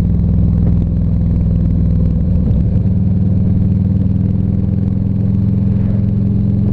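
Harley-Davidson Ultra Classic Electric Glide's V-twin engine running steadily at cruising speed under the rider, with a brief change in engine note about two and a half seconds in.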